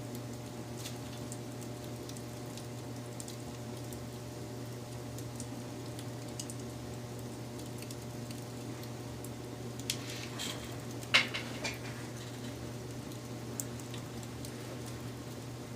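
Wood fire crackling, with scattered small snaps and a cluster of louder pops about ten to eleven seconds in, over a steady low hum.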